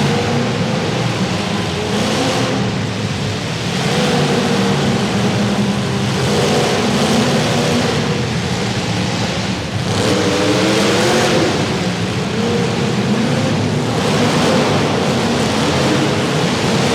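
Demolition derby car engines running hard and revving, their pitch rising and falling again and again.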